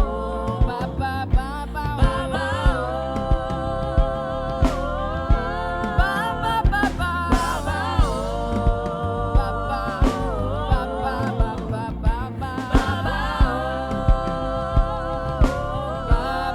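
Gospel worship music played by a live band: a steady drum beat about one and a half times a second over a heavy bass, with a long, wavering sung melody on top.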